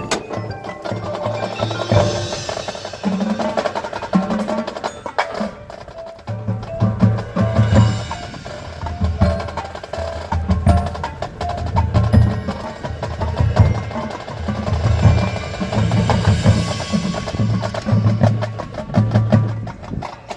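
High school marching band playing, led by percussion: wood block, mallet instruments and drums over pulsing low bass notes.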